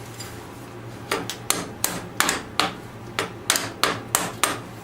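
About a dozen sharp metal-on-metal taps, roughly three a second, starting about a second in: a hammer or hand tool knocking at the linkage rod from the gear shifter to the tractor's starter to work it loose.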